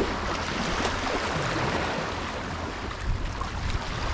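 Steady wind noise buffeting the microphone, with a rushing haze of river water, low and even throughout.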